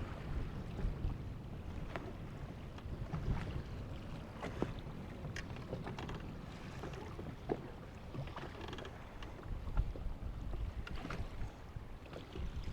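Low wind rumble on the microphone, with scattered light clicks and knocks.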